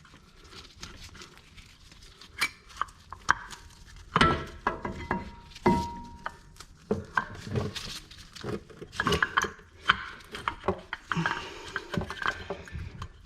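Metal parts clinking, tapping and knocking as new front brake pads are handled and fitted into the caliper, with one brief ringing note about six seconds in.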